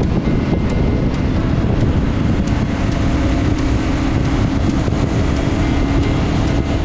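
Motorcycle running on the move, with wind rushing over the microphone: a loud, steady engine-and-wind noise that starts abruptly.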